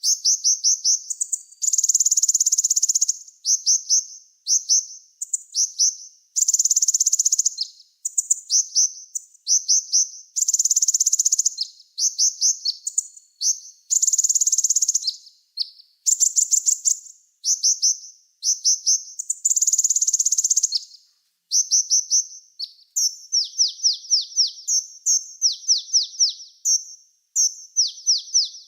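Small songbird singing fast and high-pitched: sharp chirps and quick down-slurred notes, broken every few seconds by a loud buzzing trill lasting about a second.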